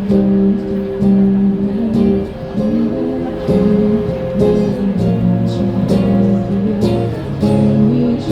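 Live band music led by a strummed guitar over a bass line, an instrumental passage with steady strumming.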